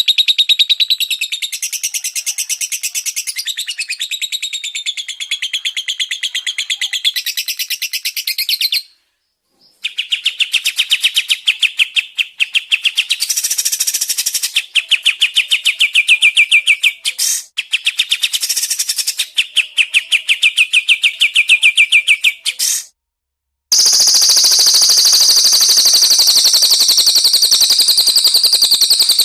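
Caged songbird trills ('tembakan'): long runs of very fast repeated notes, spliced together with brief silent gaps about nine seconds in and again after about twenty-three seconds. After the second gap comes a different, higher, continuous trill.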